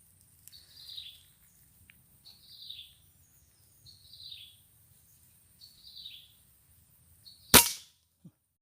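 A bird calls four times, a short downward-sliding high note about every second and a half. Near the end comes a single sharp, loud crack of a PCP air rifle shot.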